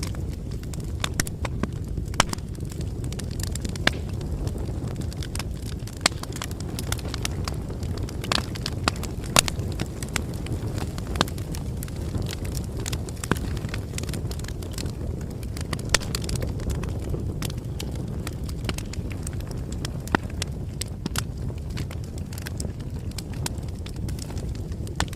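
Campfire burning: a steady low rumble of flames with frequent sharp crackles and pops at irregular intervals.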